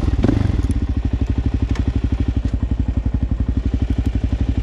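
ATV engine idling with an even, rapid thumping, and a brief clatter about a quarter-second in.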